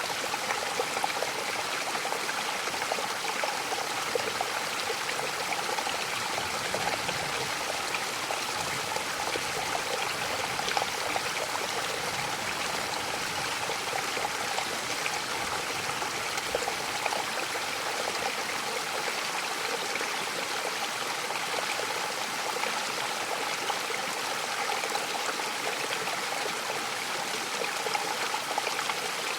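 Mountain waterfall: a steady, even rush of falling and splashing water.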